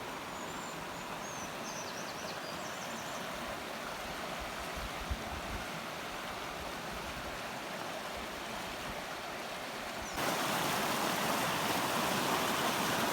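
Mountain stream rushing over rocks, a steady even wash of water noise that jumps louder about ten seconds in.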